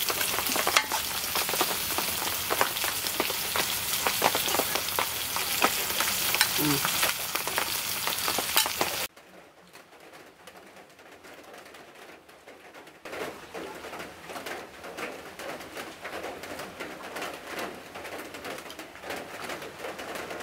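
Taro-leaf curry sizzling and crackling in a metal pan, stopping abruptly about nine seconds in. After that the sound is much quieter, with pigeons cooing faintly in the background.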